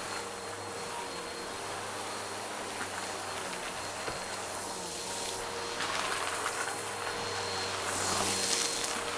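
Vacuum cleaner running steadily with a hiss of rushing air, growing louder for a few seconds in the second half.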